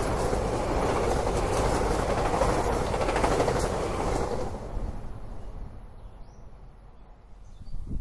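SEPTA commuter train running, a steady rushing rumble with faint clatter that fades away over the second half.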